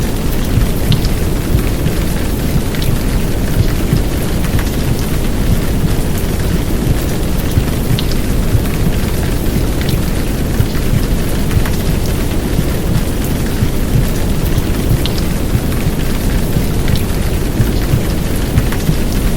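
Heavy downpour rain, a steady dense hiss over a deep low rumble, with a few sharp drop ticks standing out. It is blended with a muffled womb-sound noise.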